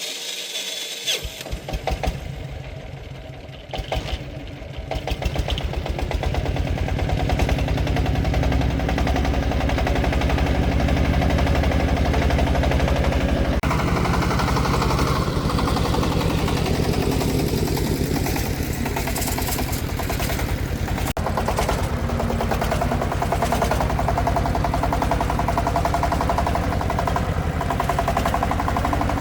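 Công nông farm truck's single-cylinder diesel engine starting about a second in, then running with a rapid, even chugging that grows louder over the next several seconds and then holds steady.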